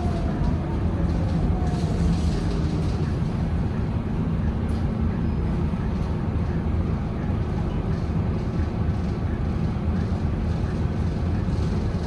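Scania K230UB bus with a 9-litre five-cylinder diesel, running steadily with an even low rumble.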